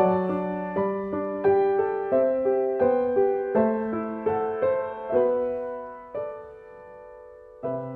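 Background music: a slow, gentle solo piano melody, each note struck and ringing away. Near the end a held chord fades out before a new phrase begins.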